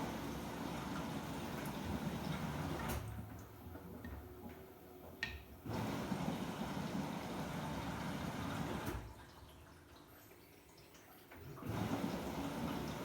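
Samsung WW90J5475FX digital inverter washing machine at the rinse stage: water rushing and sloshing in the drum, coming on suddenly and running in stretches of about three seconds with quieter pauses between. A short click about five seconds in.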